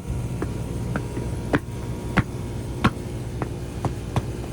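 Footsteps crunching on snow and ice, a sharp step about every half second, over a steady low hum.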